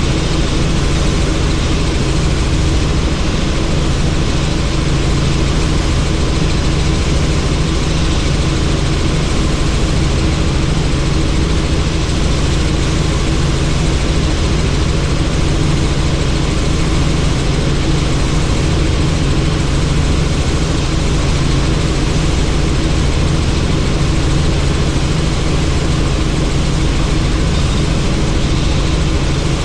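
Helicopter in flight heard from on board: a steady engine and rotor drone with a constant rush of air noise, unchanging throughout.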